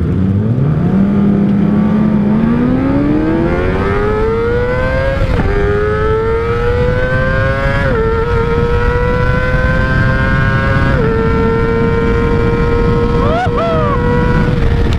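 Kawasaki ZX-25R's 249 cc inline-four through an R9 Zeta aftermarket exhaust, accelerating hard. The note climbs high, drops sharply on three upshifts, then holds a steady high-revving whine.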